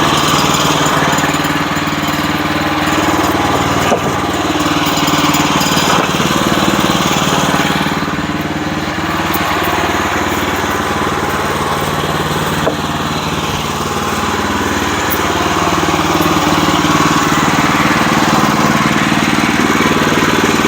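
Sawmill's small gasoline engine running steadily under load, its pitch shifting slightly now and then, with two brief sharp clicks.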